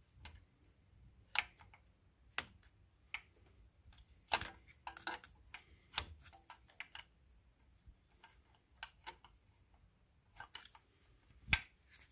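Irregular clicks and light metallic knocks of hand tools, a wrench or ratchet worked on engine hardware during tightening, with a few sharper clacks.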